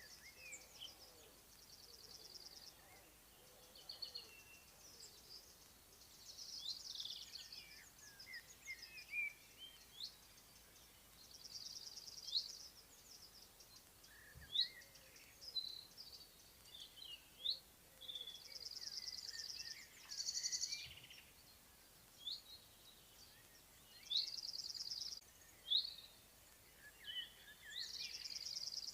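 Several songbirds singing over one another: high chirps and short whistled phrases, broken every few seconds by a fast, dense trill about a second long, heard five or so times.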